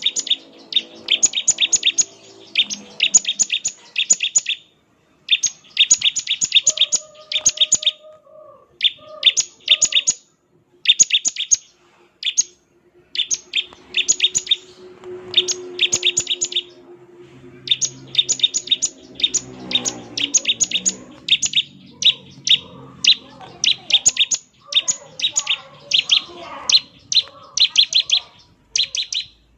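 Bar-winged prinia (ciblek) singing its rapid 'ngebren' song: bursts of fast, sharp, high-pitched notes, each about a second long, repeated with short pauses between.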